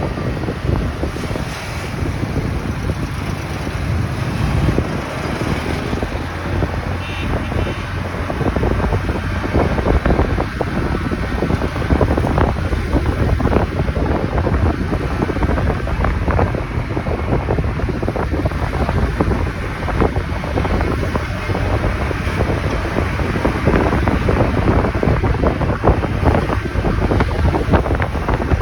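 Wind buffeting the microphone of a moving motorcycle, a steady rush with a strong low rumble, with the motorcycle's running and road noise underneath.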